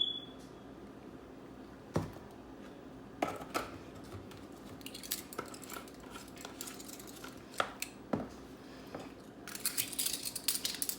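Kitchen utensils and dishes being handled while measuring and adding seasoning: scattered light clinks and taps, a short ringing clink at the start, and busier clatter near the end.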